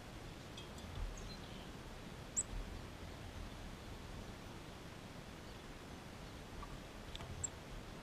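Steady faint background hiss with a few short, high bird chirps: a couple about a second in, the sharpest about two and a half seconds in, and more near the end. A few dull low bumps are mixed in.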